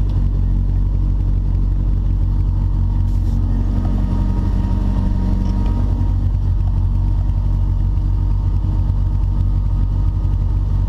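Rally car engine idling steadily, heard from inside the stripped cabin behind the roll cage.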